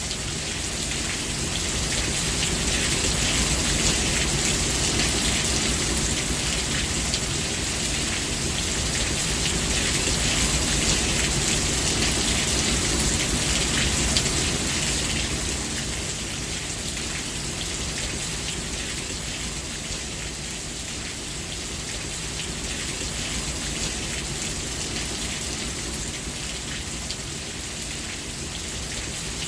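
Steady rain falling on a surface, a dense patter of drops that grows heavier a couple of seconds in and eases a little past the middle.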